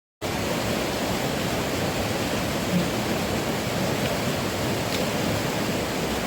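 Steady, even rushing of heavy rain, cutting in suddenly just after the start.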